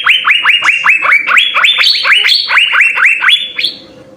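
Asian fairy-bluebird (cucak biru) calling in a fast run of loud, sharp whistled notes, about five a second, each snapping up in pitch and dropping away; the run stops shortly before the end.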